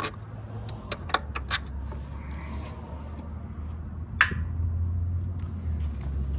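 Metal hand tools clinking as a wrench and socket work the motorcycle's rear shock mounting bolts, a few sharp clicks and taps, the clearest about a second in and again past the middle, over a low steady hum.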